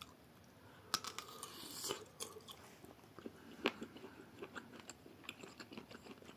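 A person biting into a grilled beef sausage and chewing it: a bite about a second in, then faint, irregular chewing with small wet mouth clicks.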